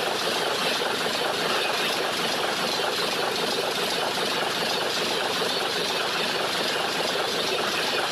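Express train's passenger coaches passing at speed through a level crossing: a loud, steady rush and clatter of steel wheels on the rails.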